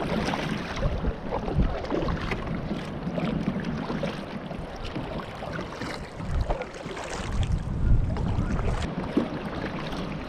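A kayak being paddled: water splashes and sloshes against the hull, with scattered knocks and a few heavier thumps a little past halfway. Wind rumbles on the microphone.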